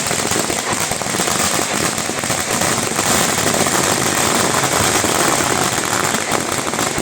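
Dense fireworks barrage, firecrackers going off in such rapid succession that the bangs run together into one steady crackle.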